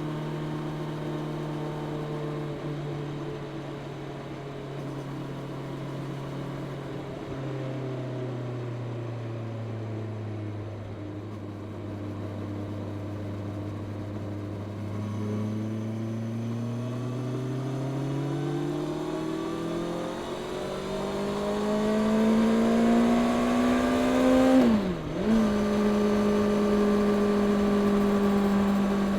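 Honda CB650R's inline-four engine through its stock exhaust, running steadily at low revs, then pulling up in a long rising pitch for about ten seconds. Near the end the revs dip sharply and recover, as at a gear change, and it holds steady and louder at higher revs.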